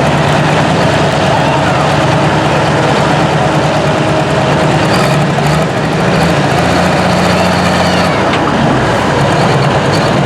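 Pulling tractor's diesel engine running hard and loud, holding a steady pitch with a couple of small dips along the way.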